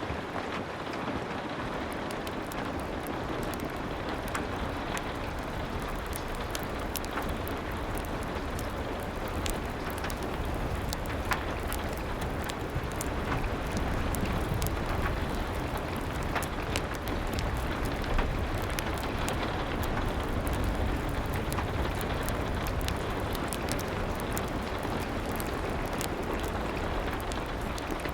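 Steady rain with a low rumble underneath and many small sharp ticks scattered through it.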